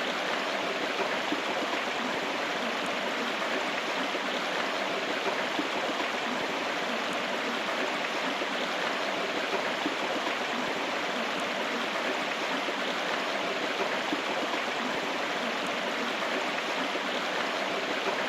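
A river running: a steady rush of flowing water with no change in level.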